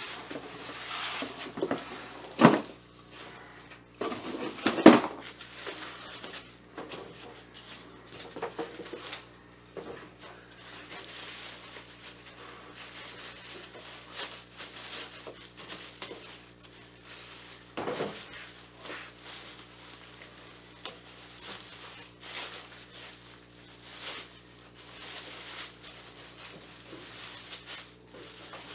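Packaging being unwrapped and parts handled: crinkling, rustling wrap with scattered knocks and clatter of hard parts, the loudest knocks about two and a half and five seconds in and another near eighteen seconds.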